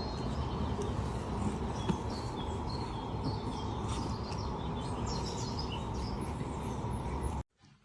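Outdoor ambience of many small birds chirping over a steady background rumble, cutting off abruptly near the end.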